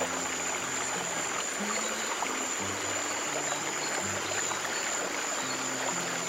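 Steady rushing and trickling of a flowing stream, with soft low music notes changing every second or so beneath it.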